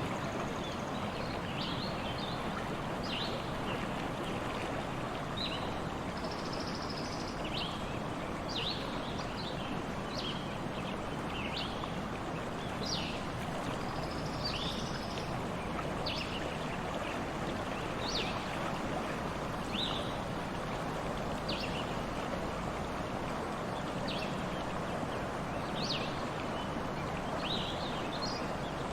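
Stream water flowing steadily, with short, high bird chirps repeating about once a second.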